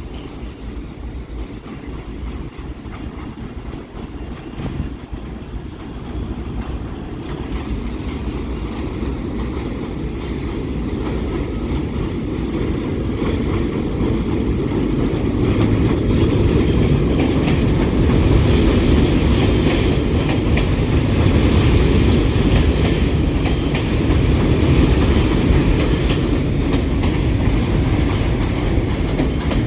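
New York City subway train running on the rails, growing louder through the first half or so, with wheels clacking rhythmically over rail joints in the second half.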